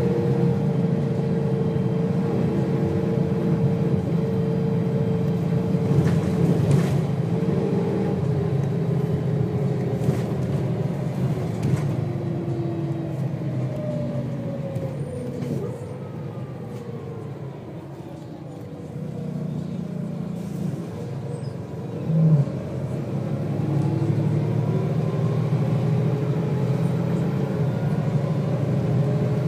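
Volvo B6BLE bus heard from on board: the diesel engine and ZF automatic gearbox run with a steady rumble and a whine that falls away midway as the bus slows, goes quieter briefly, then climbs again as the bus pulls away. A short loud knock sounds a little after twenty seconds in.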